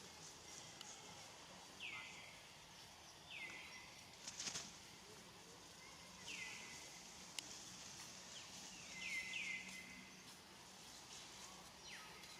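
A bird calling repeatedly and faintly with short downward-sweeping chirps, a few seconds apart, with a brief rustle or knock about four seconds in.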